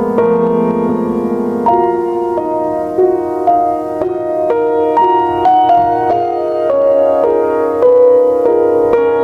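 Background music: a slow piano melody with sustained chords, new notes sounding about every half second.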